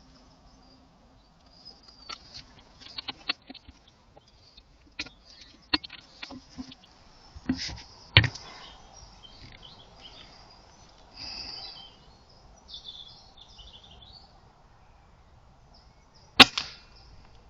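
Scattered small clicks and taps, then about a second before the end a single sharp crack: a .22 Air Arms S510 pre-charged pneumatic air rifle firing once.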